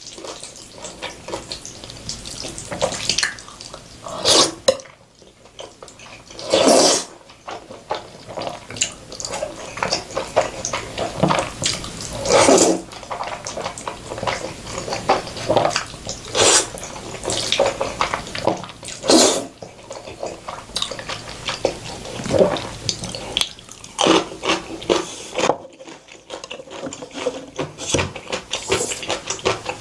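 Close-miked eating sounds of Korean-Chinese noodles and fried pork: wet chewing, smacking and slurping, with irregular louder slurps or bites every few seconds.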